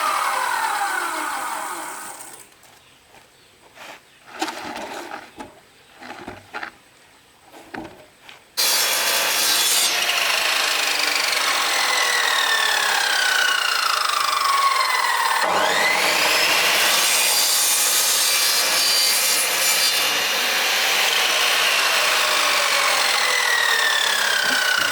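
Sawing through bamboo, a steady rasping cut. It stops after about two seconds, leaving a quieter stretch with a few knocks, then starts again abruptly about a third of the way in and runs on with slow falling whines.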